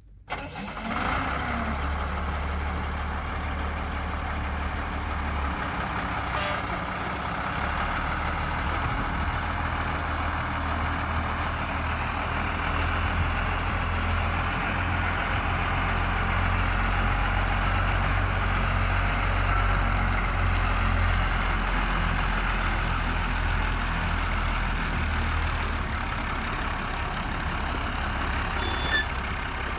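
Ford diesel bucket truck engine running steadily at idle. It comes in abruptly right at the start.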